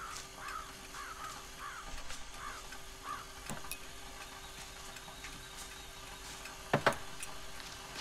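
A bird giving a run of about seven short caw-like calls over the first three seconds, then two sharp knocks close together near the end.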